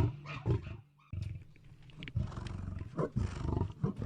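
A large animal's deep, rough calls in repeated bursts, broken by a short silence about a second in.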